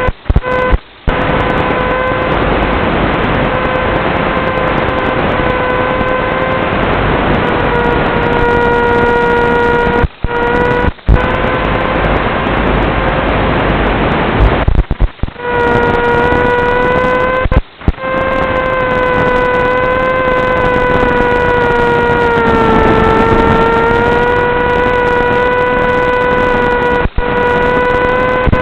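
Electric motor and propeller of an FPV wing, heard on board as a steady droning whine over airflow hiss. Its pitch dips briefly and comes back about two-thirds of the way through, and the sound cuts out for a moment several times.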